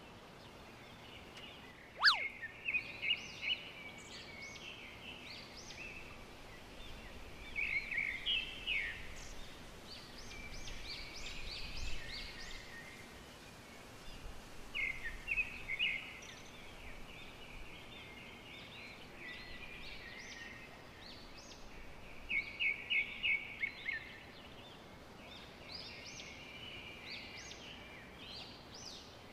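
Birds chirping in the trees: repeated bursts of short high notes and quick trills, with one sharp downward-sweeping note about two seconds in as the loudest sound.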